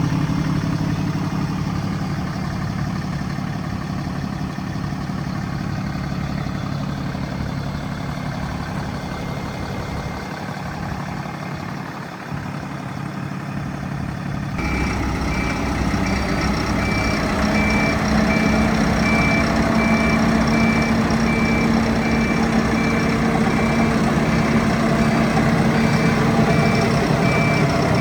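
Diesel engine of a DAF LF truck-mounted Bucher road sweeper running steadily. About halfway through, a reversing alarm starts beeping at a steady pace and the machinery gets louder, with a new steady hum joining a few seconds later.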